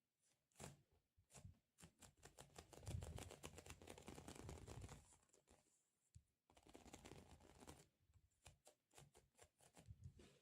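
ASMR sticky sounds: a tacky surface pressed and peeled, giving quiet rapid crackling in two longer runs, one starting about a second and a half in and one about six and a half seconds in, with scattered single ticks between.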